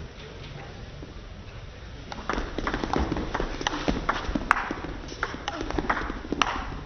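Table tennis rally: the plastic ball clicking back and forth between rackets and table, about four hits a second, starting a little over two seconds in and stopping after about four seconds.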